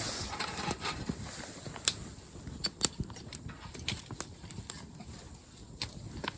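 Irregular sharp clicks and knocks, about a dozen, over a soft rustling background; the loudest come about two and three seconds in.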